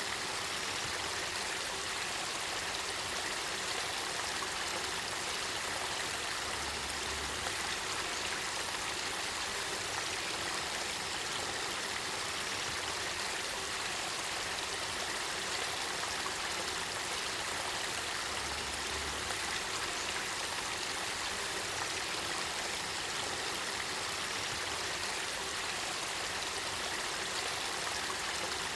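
Spring water of a spring-fed river flowing and welling up, a steady even rush of water that does not change.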